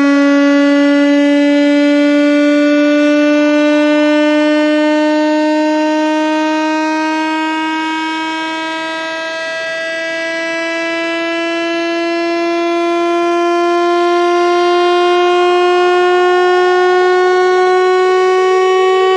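Water-eject speaker-cleaning tone: a single buzzy synthesized tone, rising slowly and steadily in pitch throughout, played to vibrate water out of a phone speaker. It dips in loudness about halfway through, then swells back.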